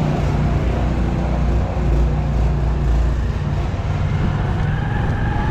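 Motorcycle engine running steadily while riding, with road and wind noise. A faint high tone joins near the end.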